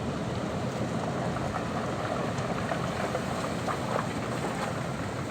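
Sea waves washing on the shore: a steady rush of surf with fine fizzing crackles of breaking foam.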